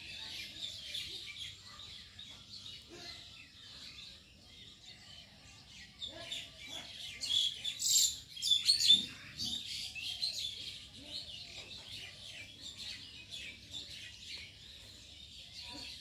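A flock of small birds chirping and twittering, many overlapping calls, with a louder flurry of chirps about halfway through.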